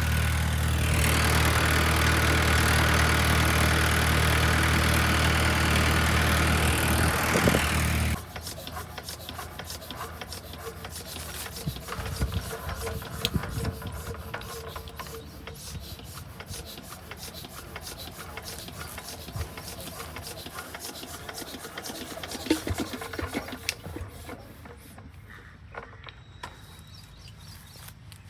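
An engine idling steadily, which stops abruptly about eight seconds in; after that, quieter scattered rubbing, scraping and clicking.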